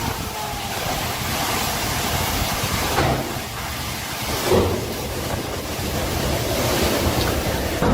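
Storm wind and rain: a steady rushing noise with a couple of brief louder gusts.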